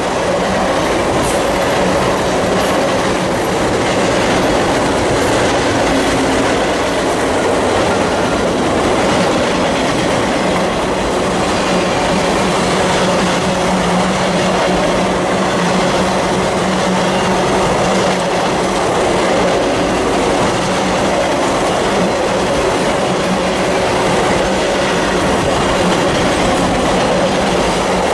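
Loaded freight flatcars rolling past close by: a steady, loud rumble and clatter of steel wheels on the rails, with a constant low hum underneath.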